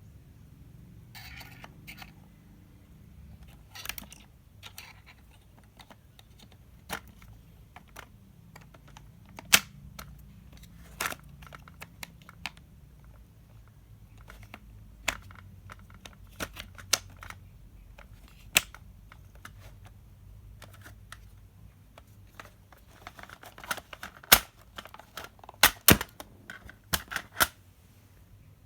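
Scattered sharp clicks and knocks with a little rustling, from a cordless drill/driver and its packaging being handled. The motor does not run.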